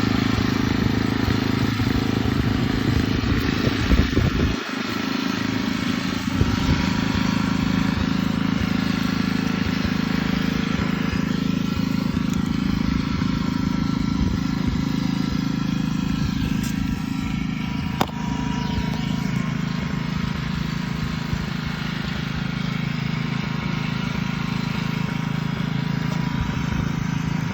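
Petrol lawn mower engine running steadily under load while cutting grass. There is a brief dip about four seconds in and a sharp click about eighteen seconds in.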